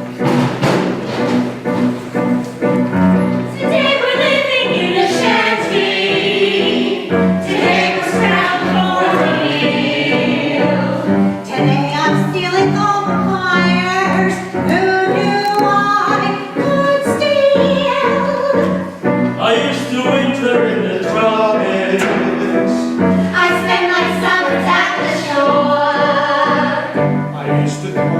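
Music: a group of voices singing a show tune over instrumental accompaniment.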